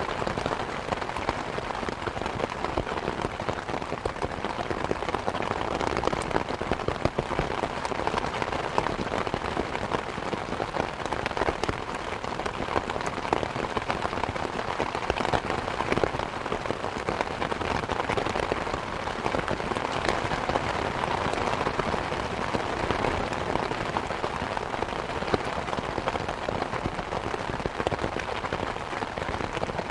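Steady rain hiss mixed with a crackling wood fire in a fireplace, whose small sharp pops and snaps come through the rain again and again.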